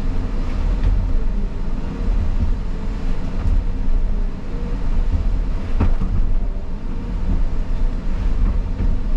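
Caterpillar 323 excavator's diesel engine running steadily, with a single sharp click about six seconds in.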